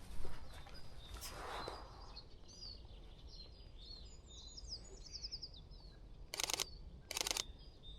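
A small songbird sings quick, high chirps and trills. Then, near the end, a Sony A6700 camera's shutter fires twice in short rapid bursts of clicks.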